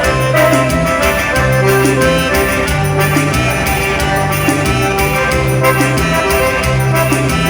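Forró music, an instrumental passage between sung verses, led by accordion over a steady, repeating bass line and beat.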